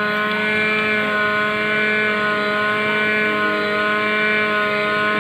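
Hot-air rework gun blowing steadily, a constant motor and fan hum with several fixed tones, used to heat the receiver board while the faulty sound IC is removed.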